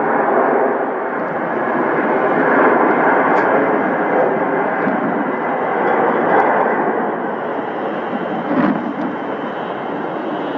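Airbus A310 MRTT tanker's twin turbofan engines at takeoff power: a loud, steady jet roar that eases slightly in the last few seconds as the aircraft climbs away.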